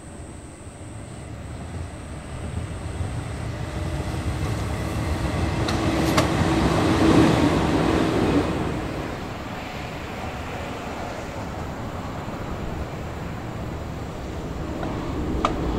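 Izuhakone Railway Sunzu Line electric train passing along a concrete viaduct. Its running noise builds to its loudest about seven seconds in, with a steady hum and a few sharp wheel clicks, then fades.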